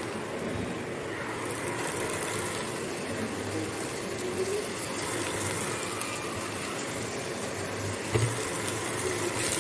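Chopped onion frying in hot oil in a pan, a steady sizzle, with a brief knock about eight seconds in.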